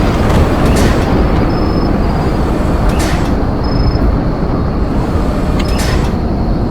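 Storm wind buffeting the microphone: a loud, steady low rumble with a brief crackle about every two to three seconds.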